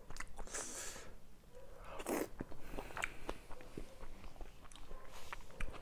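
A person chewing a mouthful of creamy tomato pasta close to the microphone, with soft scattered mouth clicks and smacks.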